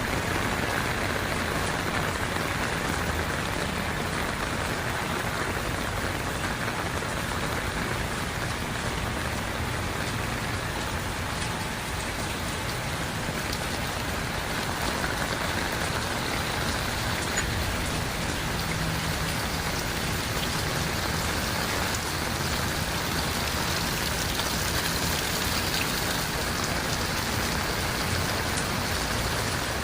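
Heavy rain falling steadily and pattering on surfaces, an even hiss of rainfall.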